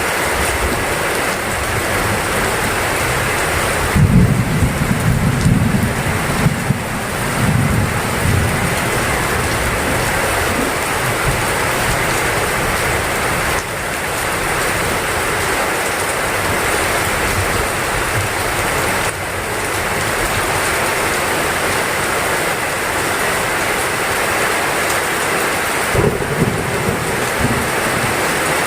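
Heavy rain falling steadily, with a rumble of thunder starting about four seconds in and lasting a few seconds, and a shorter rumble near the end.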